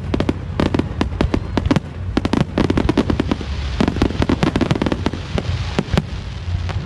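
Fireworks display: a dense, irregular run of sharp bangs and crackles, many close together, over a steady low rumble.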